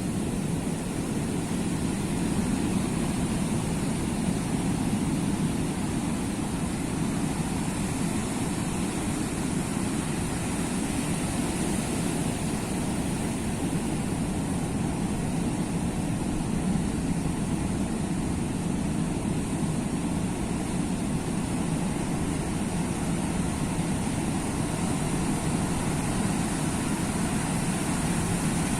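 Sea surf making a steady low roar, with no single wave breaking out from the rest.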